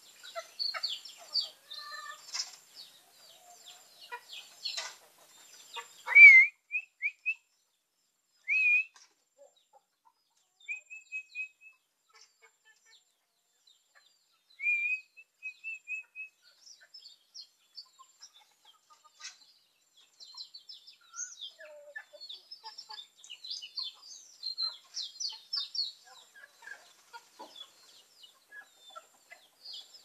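Birds chirping and calling: busy runs of short, high chirps at the start and again over the last third, with a few louder, clearer whistled phrases in between, the loudest about six seconds in.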